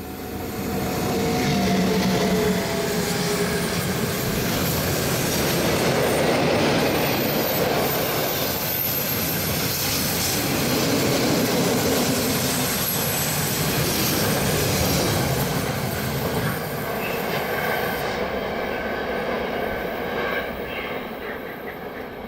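A train passing close by: rumble and rattle of wheels on the rails with squealing wheel tones. It swells quickly at the start and fades slowly over the last few seconds.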